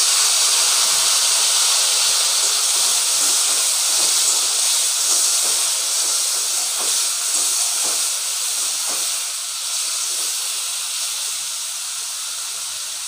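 Sliced button mushrooms sizzling in hot mustard oil in a kadhai, a loud steady hiss that slowly dies down as the wet mushrooms give up their moisture to the oil. A few soft spoon scrapes come about seven to nine seconds in as they are stirred.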